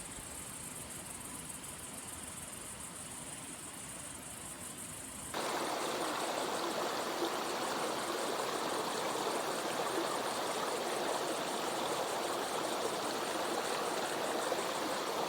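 River water flowing steadily, a continuous rush; it turns abruptly louder and fuller about five seconds in.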